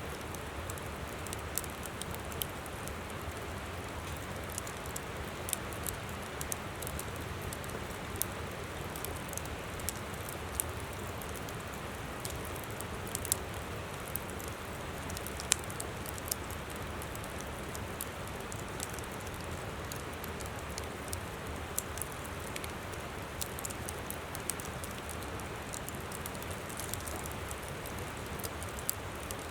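Wood campfire crackling, with sharp pops and snaps at irregular moments over the steady rush of a flowing river.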